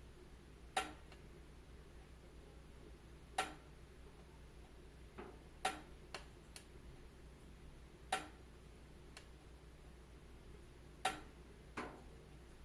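Wood fire in a fireplace crackling: sharp single pops at irregular intervals, about eight in all and one to three seconds apart, over a faint steady low hiss and hum.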